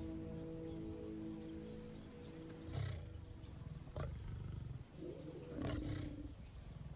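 Lions giving three short, loud, deep growls or snarls, about 3, 4 and 6 seconds in, over music that fades out.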